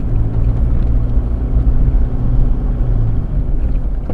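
Off-road vehicle engine running steadily, a low drone with no clear change in pitch.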